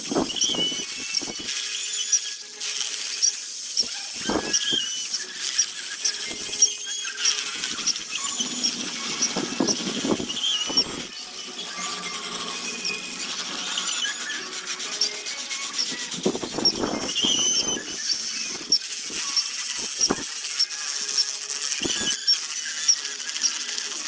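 Hand tool scraping and rubbing on a wooden bowl in irregular strokes, with many short high squeaks and small ticks.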